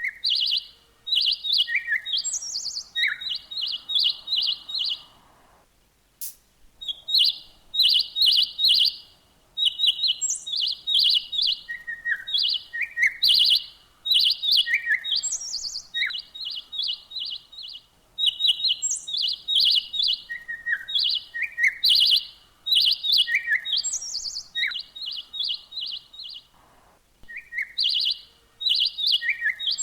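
Recorded bird calls played as a trapping lure, a mix of chao chảo, trao trảo and hoành hoạch calls. Quick runs of high chirps repeat in phrases, with a few lower and higher notes between them, broken by short pauses about six, nine and eighteen seconds in.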